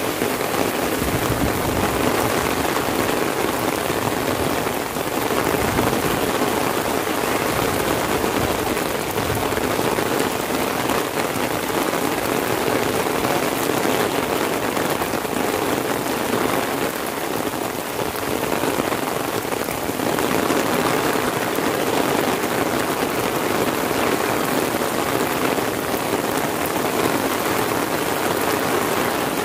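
Heavy rain falling steadily, drumming on an umbrella held overhead and on the wet paved path around it.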